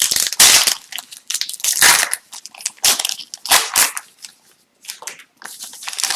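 Plastic-foil wrappers of hockey card packs crinkling and rustling as the packs and cards are handled, in an irregular string of short crackling bursts.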